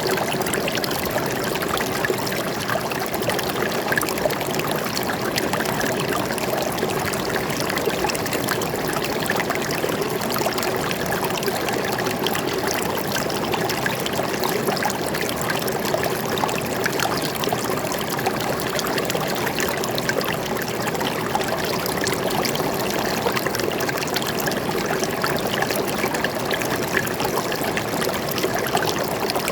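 Stream water flowing and trickling steadily, a continuous even babble of small splashes.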